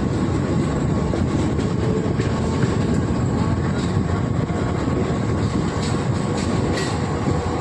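Mumbai suburban local train running along the tracks: a steady rumble of wheels on rails with a few faint clicks.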